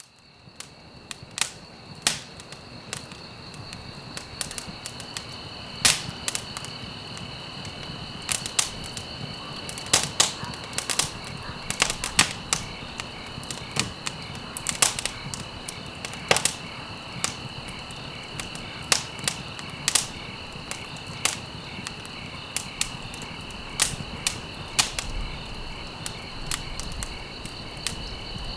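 Wood fire crackling in a fireplace, with irregular sharp pops and snaps over a soft steady hiss, fading in from silence at the start. A steady high-pitched tone runs underneath.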